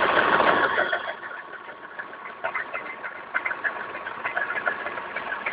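ME0909 12-volt electric motor turning a Voskhod 3M motorcycle gearbox: a steady whine with irregular clicking and rattling. It is loudest for about the first second, then quieter.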